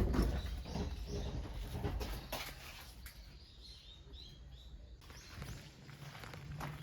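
Small birds chirping in short high calls, with scattered clicks and knocks, the loudest a knock at the very start.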